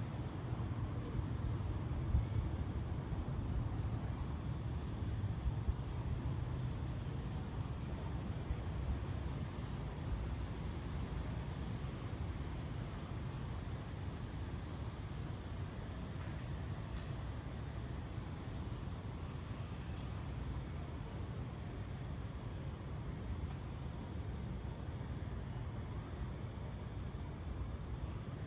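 A cricket trilling in a steady, high, pulsing tone, pausing briefly about nine seconds in and again about sixteen seconds in, over a steady low rumble.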